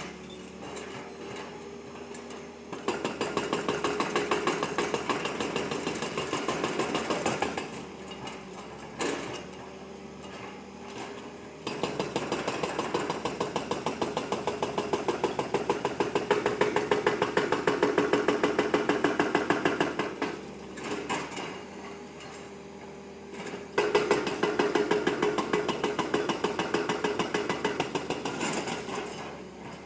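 Excavator running, with three long spells where it gets louder and takes on a fast, even clatter as it works, easing back to a quieter run in between.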